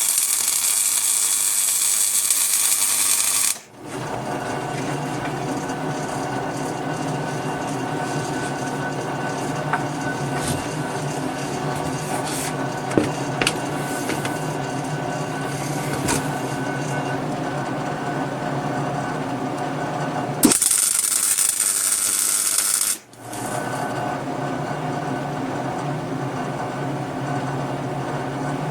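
A small power tool's motor running steadily, with a few sharp metallic clicks, broken by two spells of loud hissing, one at the start and one near the end.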